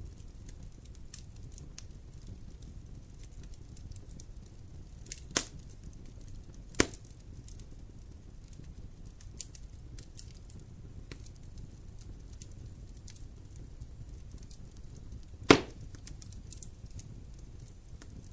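Wood fire burning in a fireplace: a steady low rumble with light crackling, broken by three sharp pops, two close together about a third of the way in and the loudest about three seconds before the end.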